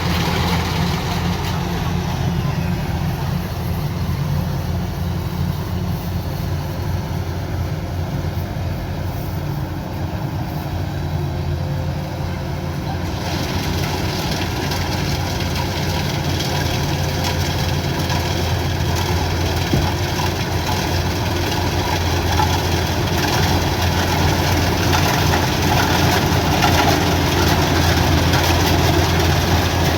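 Combine harvester's diesel engine running steadily with a deep, constant hum. About 13 seconds in, a brighter, noisier mechanical sound joins it and stays.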